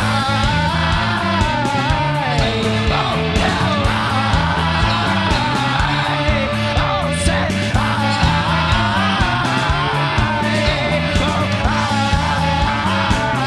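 Indie rock band playing with drums, bass and guitar, and a singing voice over it.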